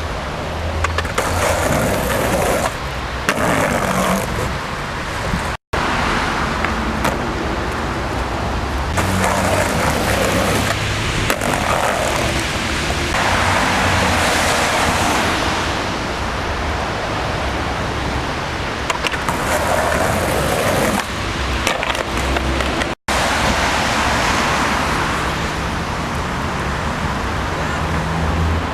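Skateboard wheels rolling over wet pavement, a steady rumbling roll.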